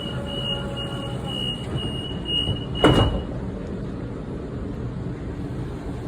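Sydney Trains door-closing warning: a high beep pulsing about twice a second, then the sliding doors shut with a single loud thump about three seconds in, over the steady hum of the stationary train.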